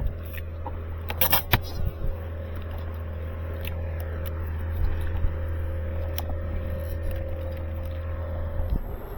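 Small boat's motor running with a steady low hum, cutting off shortly before the end. About a second in there is a brief clatter of sharp clicks and rattles from tackle handled on board.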